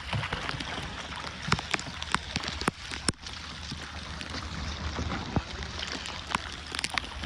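Water splashing and dripping around a kayak: many small, irregular drips and splashes over a steady hiss.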